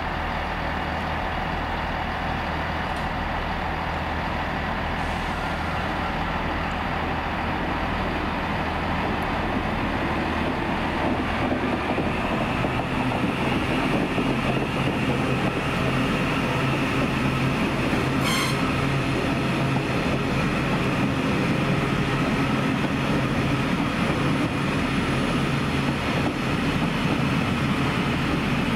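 TransPennine Express Class 397 electric multiple unit pulling out, its running noise building gradually and a steady electric whine joining partway through, over a low steady hum. A single brief sharp click comes about two-thirds of the way in.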